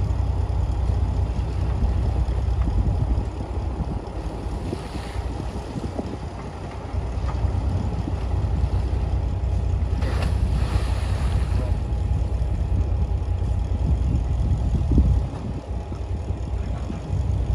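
Heavy diesel earthmoving machinery running with a continuous low engine rumble that eases off twice and comes back.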